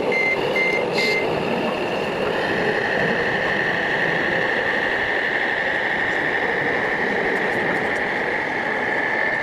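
Model truck reversing beeper sounding about three quick beeps a second for the first second, then a steady high-pitched whine from about two seconds in, over a constant mechanical running noise.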